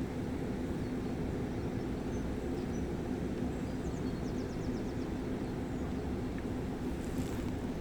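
Gave de Pau mountain river rushing steadily in a deep, even rumble, with a few faint bird chirps.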